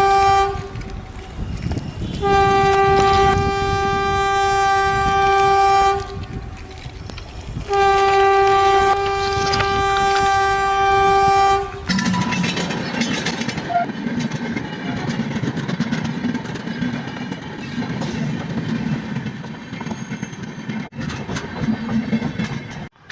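Train horn sounding long, steady single-pitch blasts, three in all, the first ending just after the start. Then the train passes close by, its wheels clattering over the rails, until the sound cuts off sharply near the end.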